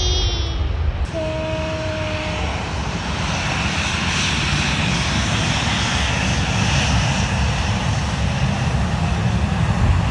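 Jet airliner passing, its engine noise building to a peak about four to seven seconds in, then easing.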